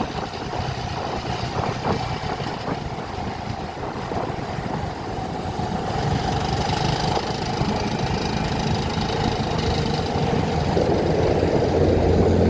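A motor vehicle's engine running steadily, with a low hum, growing a little louder over the second half.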